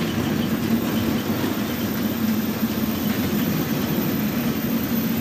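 Prevost coach's Volvo D13 inline-six diesel engine running steadily with a low, even drone.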